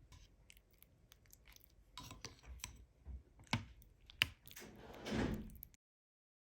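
Scattered small clicks and knocks of objects being handled, followed by a short rustling swell, then cut off abruptly into silence about six seconds in.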